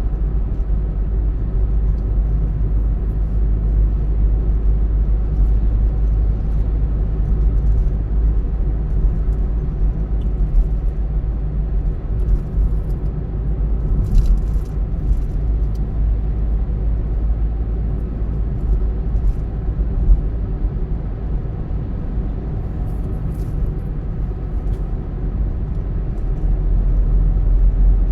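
Steady low rumble of a car on the road, engine and tyre noise, swelling a little louder near the end.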